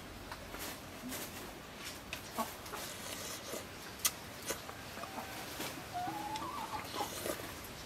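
Faint bird calls, one rising call about six seconds in, over soft eating sounds and a few sharp clicks, the sharpest about four seconds in.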